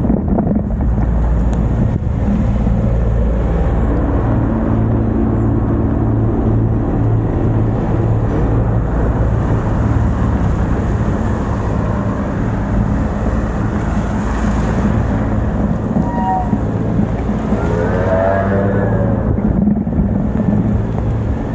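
Wind rumbling on the microphone of a moving bicycle, with the steady running of motor traffic alongside. A brief wavering whine rises and falls about three quarters of the way through.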